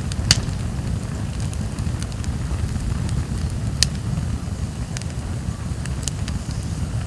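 Wood campfire burning: scattered sharp crackles and pops over a steady low rumble, with the loudest pops just after the start, about four seconds in and about six seconds in.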